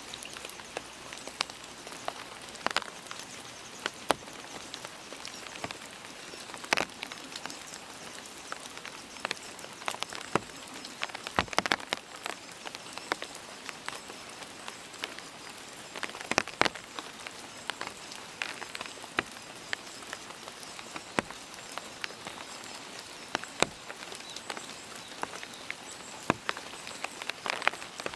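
Steady rain, with scattered heavier drops landing at irregular moments as sharp ticks.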